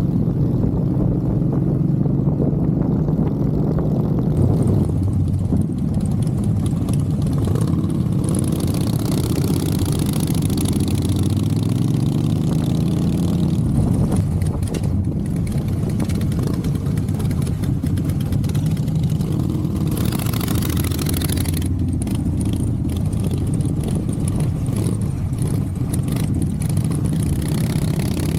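Motorcycle engine running under way, its pitch rising and falling with the throttle about a third of the way in, with two stretches of rushing wind or road hiss.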